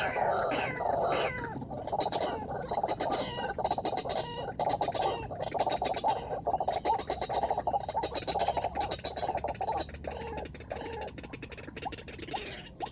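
White-breasted waterhen calling: a rapid run of repeated notes, with a few falling notes at the start, thinning out near the end.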